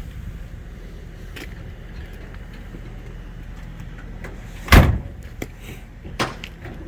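A car door shut with one loud thud about two-thirds of the way in, followed by a smaller knock, over a steady low hum.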